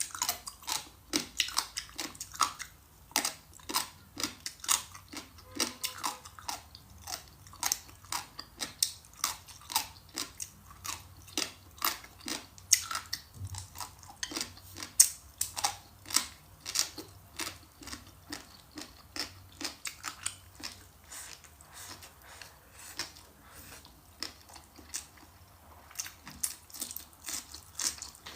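A person eating close to the microphone: chewing and biting with an irregular run of crisp crunches and clicks, sparser and quieter for a few seconds past the middle.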